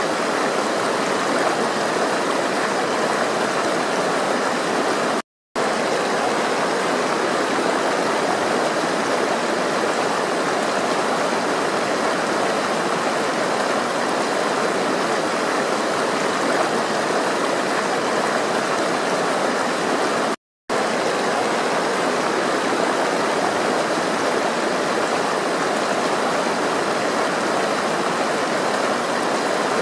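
Flowing water in a stream, a steady rushing and gurgling that cuts out to silence for a split second twice, about five seconds in and about twenty seconds in.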